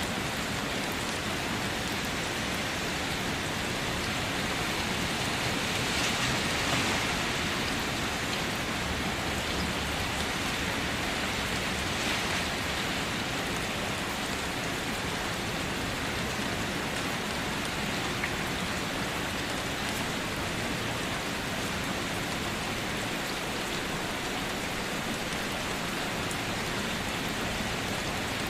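Steady rain falling, a dense patter of drops on surfaces with a brief swell in intensity about six seconds in.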